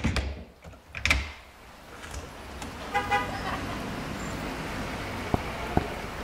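Sound-designed city street ambience with steady traffic noise: a couple of thumps at the start, a short car horn toot about three seconds in, and footsteps starting near the end at about two steps a second.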